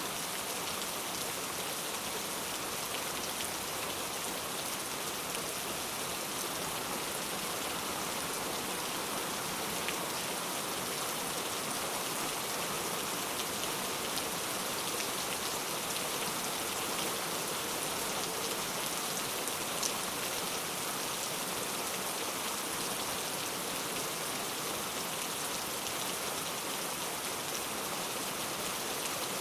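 Heavy rain falling steadily: a dense, even hiss full of the fine patter of individual drops, with one slightly sharper drop tick about twenty seconds in.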